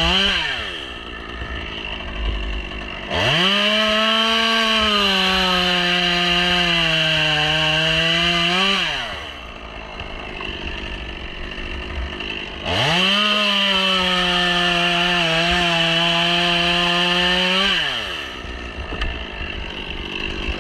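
Stihl chainsaw making two cuts into white birch wood, each about five seconds of full throttle with the engine pitch dipping under load, and dropping back to idle between them.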